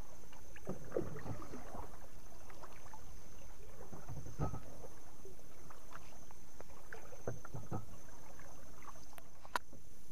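Water slapping and lapping against a small fishing boat's hull, over a steady low rumble, with scattered light knocks and clicks from handling in the boat and one sharper click near the end.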